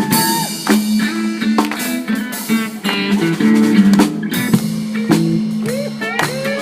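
A live band playing an upbeat song with guitar and drum kit, an instrumental stretch between sung lines; a voice comes back in near the end.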